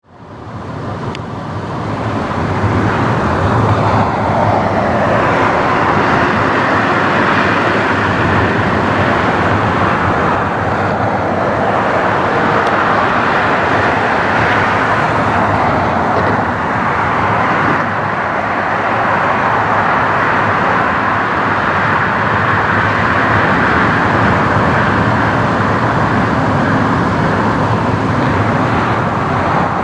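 Boeing 737-800 jet engines running at high power, a loud steady rush of noise that swells in over the first couple of seconds.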